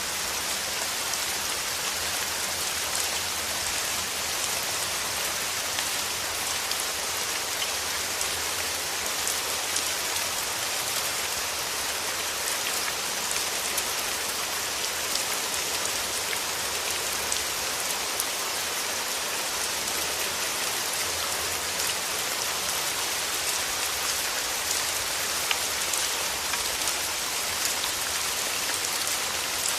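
Steady rain falling through forest trees, a dense even patter of drops hitting leaves.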